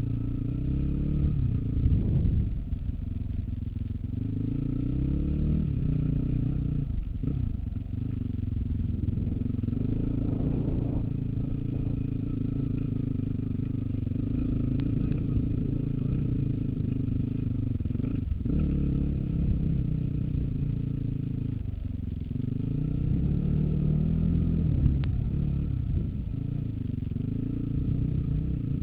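Dirt bike engine running under load on rough singletrack. Its pitch rises and falls as the throttle opens and closes, with a couple of brief drops when the throttle is chopped, about a quarter and about two-thirds of the way through.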